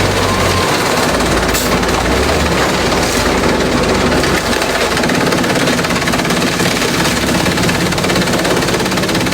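Industrial shredder chewing through bamboo: a loud, continuous clattering and crackling over the machine's running, with a low rumble that swells twice near the start.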